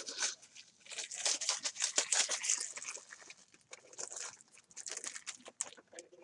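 Plastic packaging crinkling and tearing open in dense runs of rapid crackles, easing off briefly partway through and then starting again.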